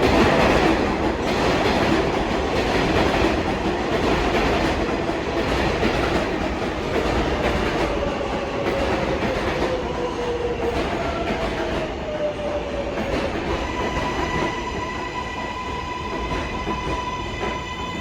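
R188 subway train pulling into the station: a heavy rumble and wheel clatter that slowly eases as it slows, with a whine falling in pitch. A steady high tone sets in near the end as the train comes to a stop.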